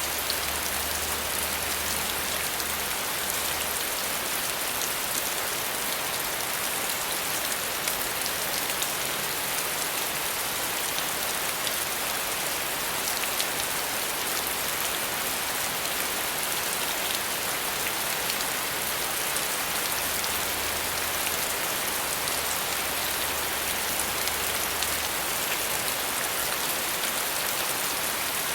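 Steady rain falling, a continuous even hiss with faint patter of drops.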